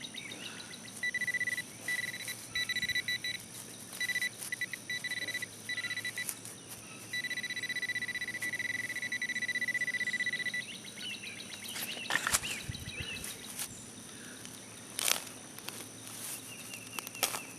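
Garrett AT Pro metal detector sounding a steady high tone, first in several short beeps, then held for about three seconds, as it picks up metal in ground littered with junk iron. A few sharp knocks or scrapes come near the end.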